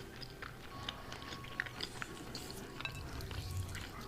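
Soft eating sounds: quiet chewing with scattered small mouth clicks and light ticks, over a faint low hum.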